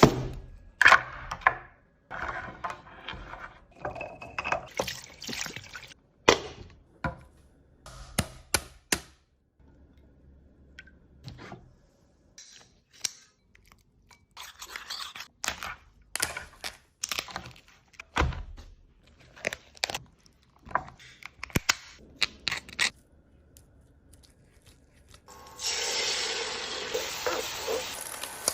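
Kitchen preparation sounds: a long run of irregular knocks, thunks and scrapes. About 25 seconds in, food starts sizzling in a hot pan.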